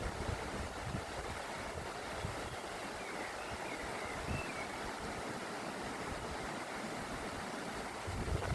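Mountain torrent rushing steadily, with a faint bird call wavering above it a few seconds in and low rumbles near the start and end.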